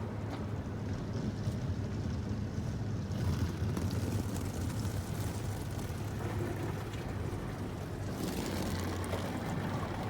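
Belanger FreeStyler automatic car wash heard from inside the car: a steady machine hum under water and spray noise washing over the body, with the high hiss of the spray growing stronger about eight seconds in.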